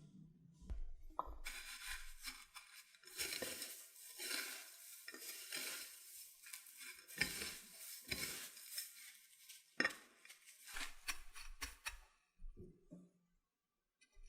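Kitchen preparation noises: irregular scraping, rustling and light clattering of utensils and food, stopping about two seconds before the end.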